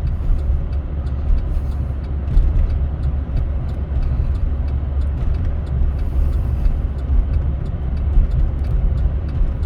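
Pickup truck driving on a snow-covered road, heard from inside the cab: a steady low rumble of engine and tyres, with many faint, irregular ticks.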